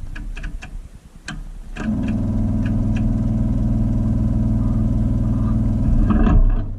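An engine running steadily at idle, fading out for about a second near the start and coming back, with scattered light clicks over it.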